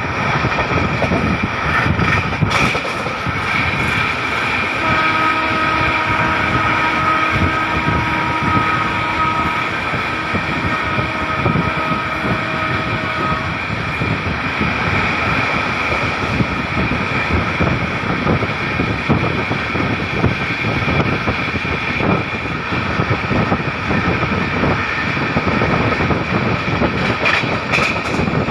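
Saurashtra Mail passenger train running at speed: a steady rumble and rattle of wheels on the track. A train horn sounds in two long blasts between about 5 and 13 seconds in.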